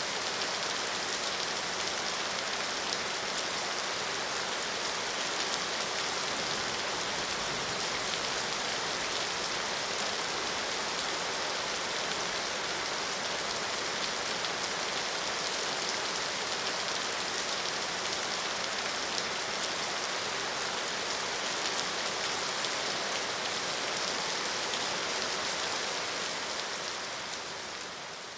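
Steady rain falling, a dense even hiss with fine pattering of drops, fading out near the end.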